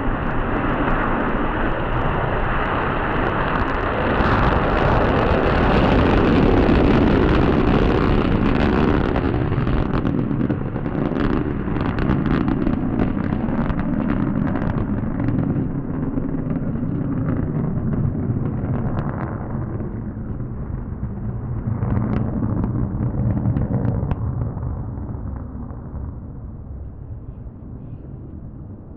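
Jet noise from a Panavia Tornado's twin RB199 turbofan engines as the aircraft rolls down the runway after landing. It is loudest in the first third, crackles now and then, and fades away over the last few seconds.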